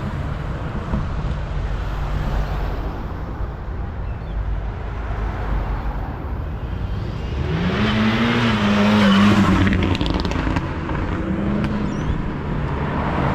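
Car engines rumbling at low revs, then about halfway through one car's engine revs up, its pitch rising, and it drives past loudly before easing off.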